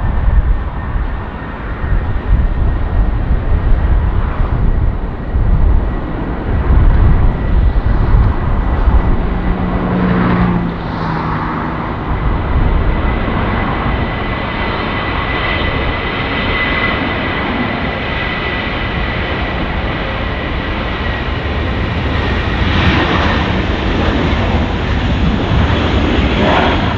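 Jet airliner's engines at takeoff power during a departure from the runway: a loud, steady rumble with a high whine held throughout.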